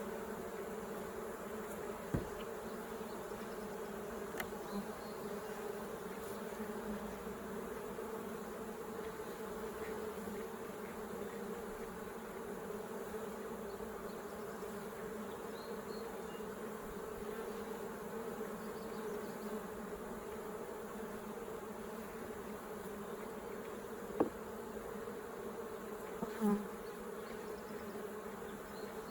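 A honeybee colony at an open hive, buzzing in a steady, continuous drone. A few short, sharp clicks sound over it, one about two seconds in and two more near the end.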